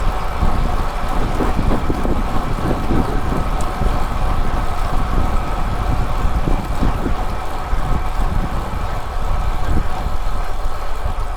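Wind rushing over the microphone and road rumble while riding at speed, steady throughout, with a faint steady hum in the background.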